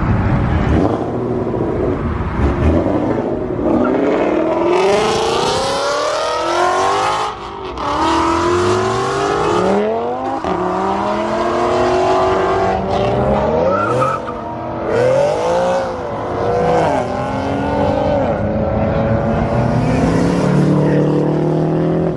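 Car engines revving and accelerating hard as cars pull away one after another, their pitch sweeping up through the gears and dropping at each shift, with a loud rushing stretch about five seconds in.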